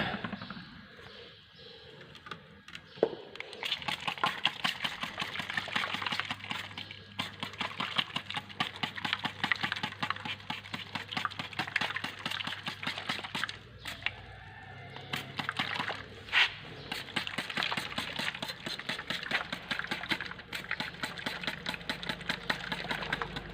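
Scratchy scrubbing of the car's rear drum-brake backing plate: a run of rapid strokes that starts a few seconds in and pauses briefly about halfway. A couple of sharper knocks stand out.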